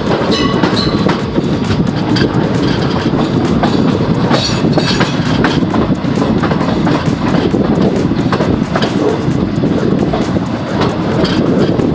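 Passenger train running on the track: a steady, loud rumble with the wheels clicking over the rail joints, and brief high squeals near the start and about four seconds in.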